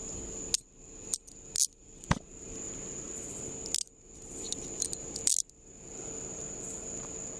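Metal handcuffs being snapped on and ratcheted shut around a man's wrists: a string of sharp metallic clicks and clinks, one group in the first two seconds and another around the middle.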